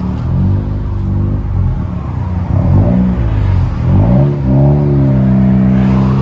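2017 Honda Civic Si's 1.5-litre turbocharged four-cylinder accelerating hard through an aftermarket exhaust. The pitch rises and drops a couple of times around the middle, then holds steady near the end.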